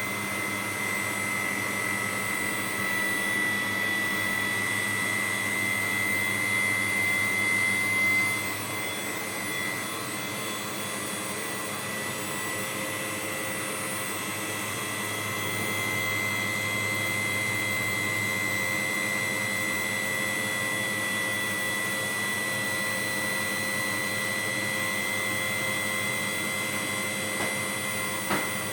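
Heating-element machine running steadily with a high, constant whine and a lower hum. The whine dips slightly about eight seconds in, and there is a short click near the end.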